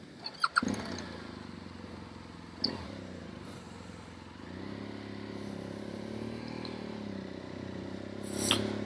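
BMW GS Adventure motorcycle's boxer-twin engine starting up after a few clicks, about half a second in, and running steadily, with a clunk a couple of seconds later. From about halfway the engine note grows louder and climbs as the bike pulls away, and there is a short loud rush of noise near the end.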